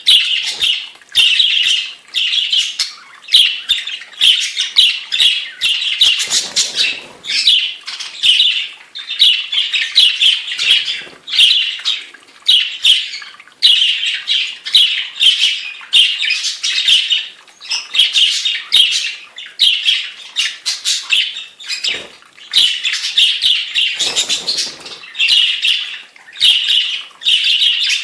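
Budgerigars chattering and squawking without pause in loud, rapid bursts of shrill calls, the noisy breeding-season chatter of a pair or flock. Twice there is a brief low rustle.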